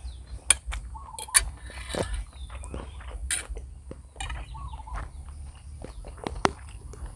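Eating sounds close to the microphone: instant noodles and sausage being chewed, with irregular sharp clicks and wet smacks.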